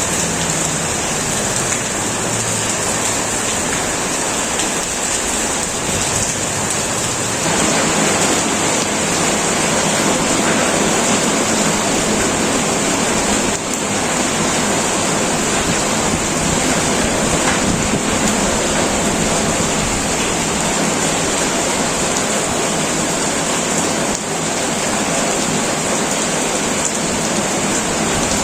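Heavy rain falling steadily on a tin metal roof, a dense even hiss that grows heavier about seven seconds in.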